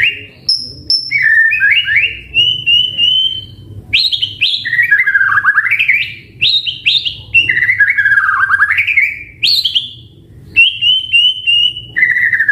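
White-rumped shama singing: loud phrases of whistled notes that swoop down and climb back up, alternating with quick runs of repeated short notes and thin high notes, with short pauses between phrases.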